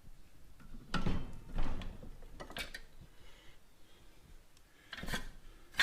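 A handful of separate metal knocks and clatters as a motorcycle front fork leg is handled and turned upside down in a bench vise.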